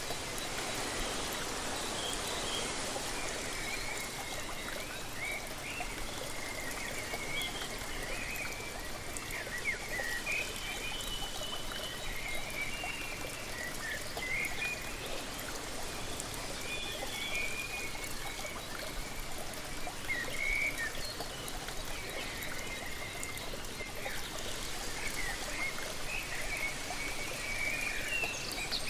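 Steady rushing water of a waterfall, with small birds chirping and twittering on and off throughout.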